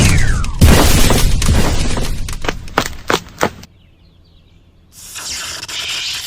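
Battle sound effects: a short falling whistle, then a heavy crash about half a second in, followed by a run of shattering, clattering debris that thins out and cuts off suddenly. After about a second of quiet, a steady noisy rush begins.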